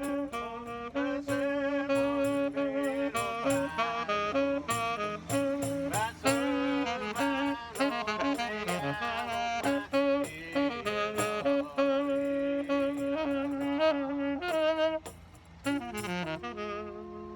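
Two musicians improvising together: a fast, ornamented melody line moving over a held lower note, with a brief quieter moment near the end.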